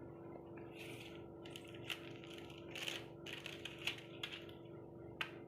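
Product packaging being handled: scattered small clicks and taps, about six, with two brief rustles of cardboard or plastic, one about a second in and one about three seconds in.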